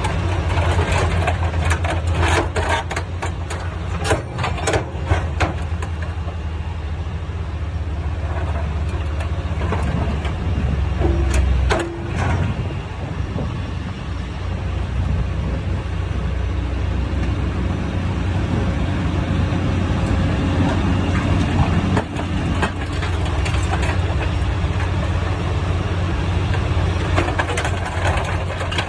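Sierra T550 logger baler shear's diesel power unit running steadily under load, with sharp metal knocks and clanks in the first several seconds and again about twelve seconds in as a scrap truck frame is worked. The engine note changes briefly about twelve seconds in and again near twenty-two seconds.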